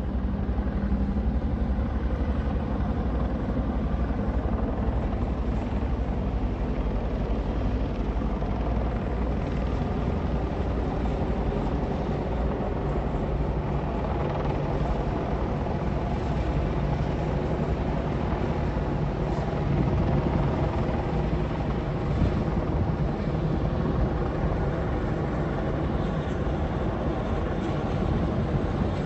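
Military helicopter flying over, with a steady drone of rotors and engine.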